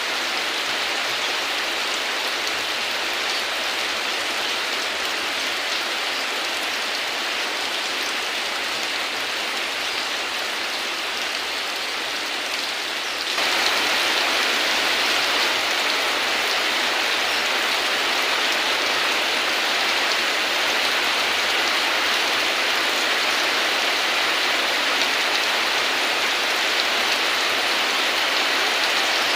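Heavy rain falling steadily, an even hiss of drops on surfaces. About halfway through it abruptly becomes louder and stays so.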